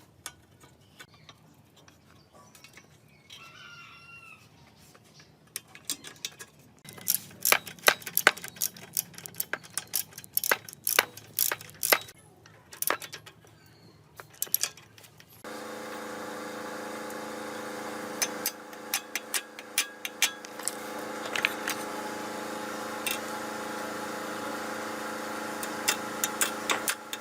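Metal parts clinking and tapping in quick, irregular strokes. About halfway through, a small motor starts and runs at a steady, even pitch, with more clicks over it, then cuts off at the end.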